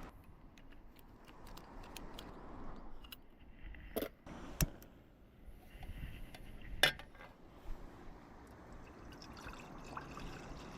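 Camp coffee gear being handled: water poured into a container, with small clinks and a few sharp knocks, the loudest about four and seven seconds in.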